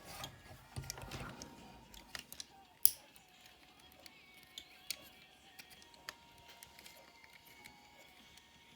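Plastic transforming robot figure being handled: its ratchet joints and parts click and snap in scattered small clicks, with one sharp snap about three seconds in.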